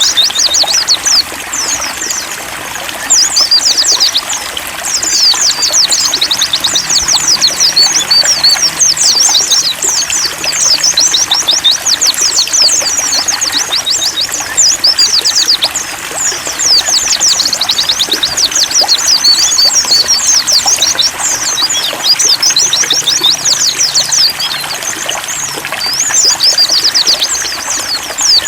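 Several white-eyes (pleci) singing fast, high-pitched twittering strings of chirps that run on with only brief lulls, over a steady trickle of running water.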